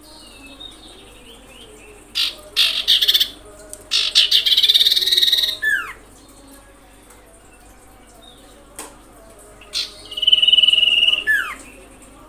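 Common iora calls: a run of short harsh notes, then a long buzzy call that ends in a quick falling note. About ten seconds in comes a single long, steady note that also ends in a downward slur.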